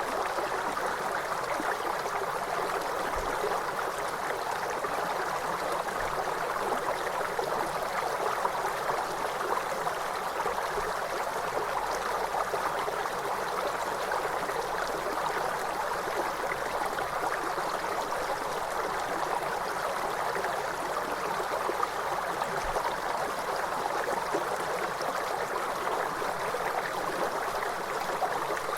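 River water flowing and rushing steadily, an even unbroken noise.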